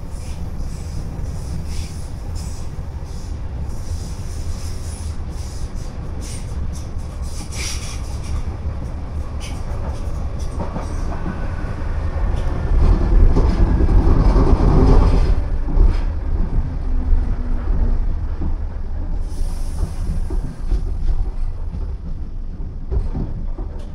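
DART electric commuter train heard from inside the carriage: a steady low running rumble with scattered sharp clicks from the wheels and track. It grows louder for a few seconds about halfway through.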